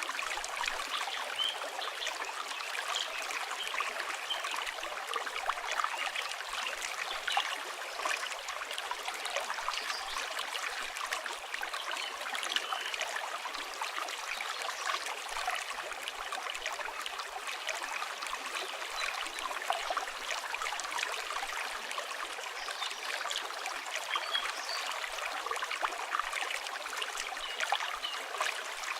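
River water flowing steadily, with a campfire crackling in many small, quick pops throughout.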